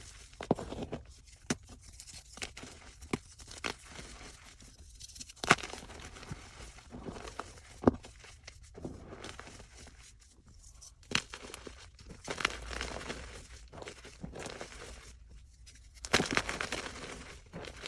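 Blocks of gym chalk being crushed, giving soft, irregular crunching and crumbling with a few sharper snaps and a denser stretch of crackling near the end.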